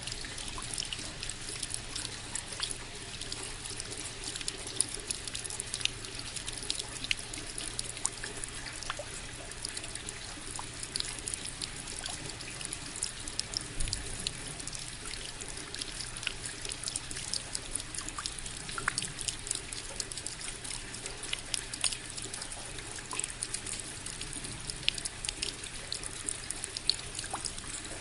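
Water falling from a spout and splashing steadily, a continuous trickling rush dotted with many small, sharp splashes.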